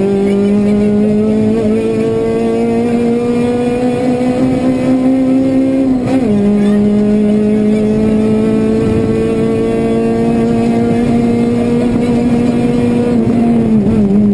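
Honda Civic Type-R rally car's four-cylinder engine pulling hard at high revs under full throttle, heard from inside the cabin over road and tyre noise. The engine note climbs slowly, drops sharply at an upshift about six seconds in, climbs again, and dips briefly near the end.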